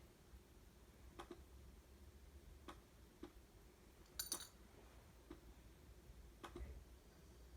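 Faint, sharp ticks and clicks at uneven intervals over low room hum, with a brief higher rattle of clicks about four seconds in.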